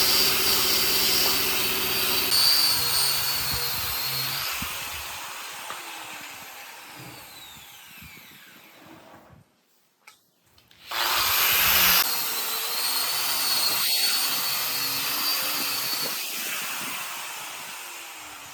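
Handheld electric power tool working wood: it runs loud, then winds down slowly with a falling whine and stops. After a short silence it starts up again suddenly and again winds down.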